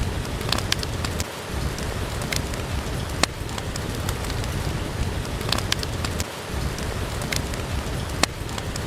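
Steady rain hissing, with a few sharp, irregular pops and crackles from a wood fire burning in a fireplace.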